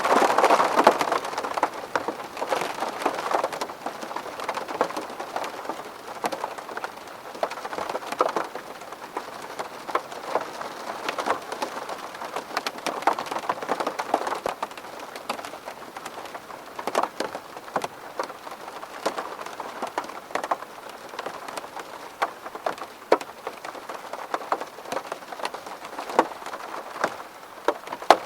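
Rain pattering on a window pane: a steady wash of rain with many separate drops tapping sharply on the glass, heavier for about the first second.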